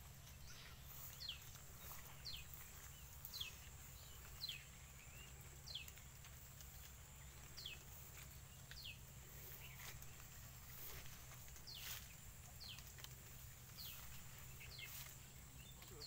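Near silence, with a bird repeating a short, high call that falls in pitch, roughly once a second.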